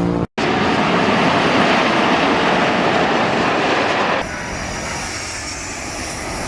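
Jet airliner engines running loud, a steady rushing noise. It breaks off for a split second near the start, then drops sharply quieter about four seconds in.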